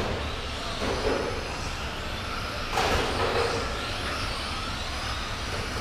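Radio-controlled racing trucks running on the track: several high motor whines rising and falling as they speed up and slow down, with a brief hiss about three seconds in.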